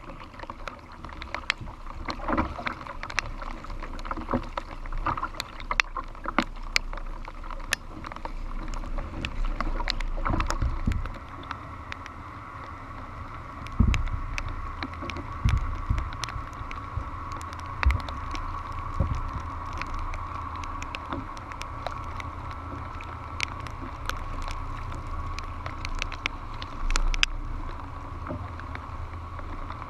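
Kayak paddling in wind: paddle strokes and water washing against the hull, with wind gusting on the microphone and many sharp ticks and knocks throughout.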